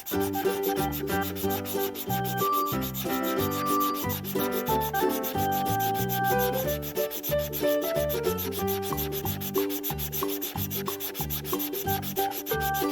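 Rapid, continuous scribbling of a colouring tool on paper, a fast repeated scratchy rubbing, with a simple tune of stepping notes underneath.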